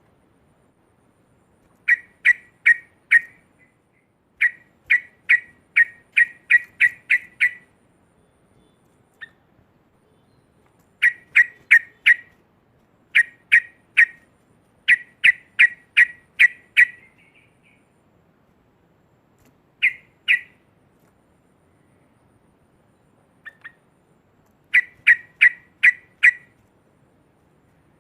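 Yellow-vented bulbul (cucak trucuk) giving its loud 'ngekek' chattering call. It sings runs of two to nine sharp, even notes at about three a second, with pauses of a few seconds between runs.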